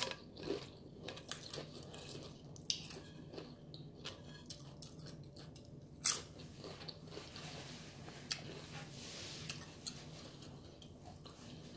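Tortilla chips crunching and soft chewing close to the microphone, with scattered small clicks and one sharp crunch about six seconds in as a chip is bitten.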